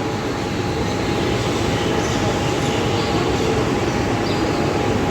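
Mumbai suburban electric local train running, a steady rumble with a thin steady whine over it.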